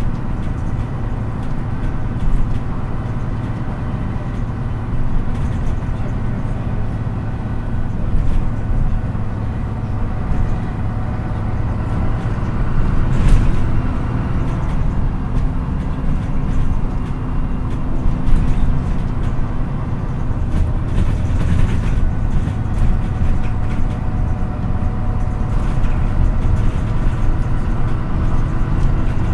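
MAN NÜ 313 city bus under way, heard from inside: its engine runs steadily beneath tyre and road noise, with a few brief louder knocks or rattles.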